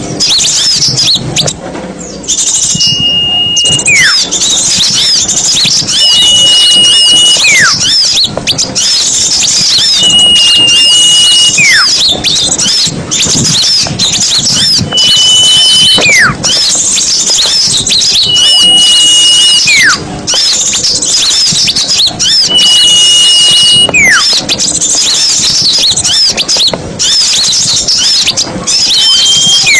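Bird-lure recording of many small songbirds chattering densely and excitedly. Through it runs a repeated whistled note, held for about a second and then sliding sharply down, coming every three to four seconds.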